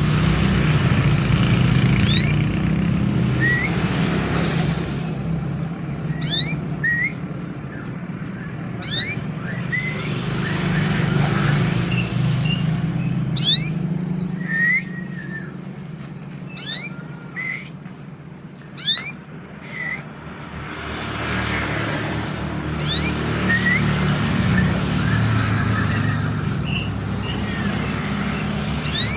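A songbird giving short, sharp upward-sweeping whistles every two or three seconds, mixed with shorter chirps, over a steady low rumble like a running engine or traffic.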